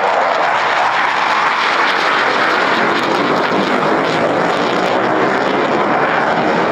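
Loud, steady jet noise from the HAL Tejas LCA fighter's single turbofan engine as it flies its display.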